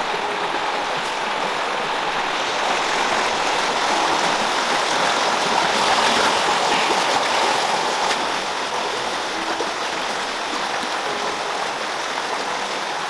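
Running water: a steady rush from a stream or small waterfall, swelling slightly near the middle.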